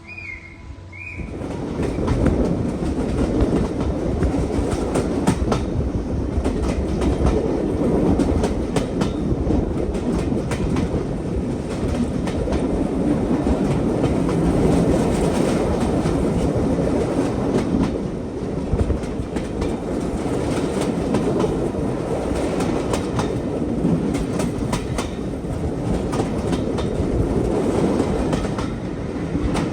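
Train running along the track: a steady rumble with frequent clicks of the wheels over the rails, starting abruptly about a second in.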